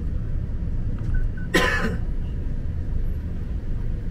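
Car engine idling steadily, a low rumble heard from inside the cabin. About a second and a half in, someone in the car gives one short cough.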